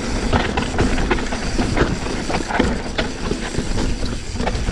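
Mountain bike clattering and rattling over rocks on a rough descent, with irregular sharp knocks from the wheels and frame and a constant low rumble of wind on the microphone.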